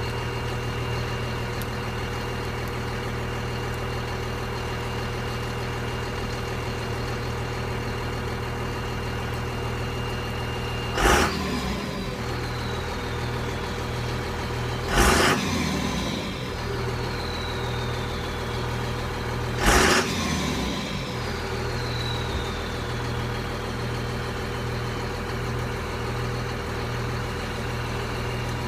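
Cummins turbo-diesel idling and blipped three times, each short rev followed by the turbocharger's whistle falling away over a few seconds. The turbo silencer ring has been removed, and the exhaust runs through a 4-inch pipe and stock muffler with no resonator.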